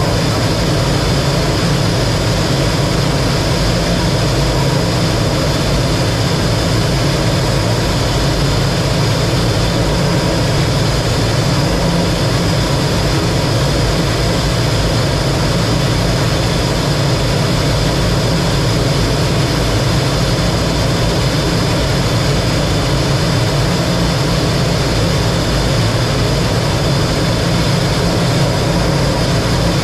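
Steady engine and air noise of a T-33 jet trainer in flight, an even drone with a faint high whine.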